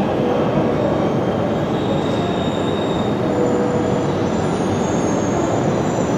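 Tohoku Shinkansen train moving along the station platform: a steady rushing rumble with faint thin squealing tones from the wheels.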